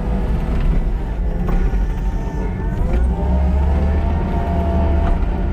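Kubota SVL97-2 compact track loader's diesel engine running under load while grading, revving up about halfway through.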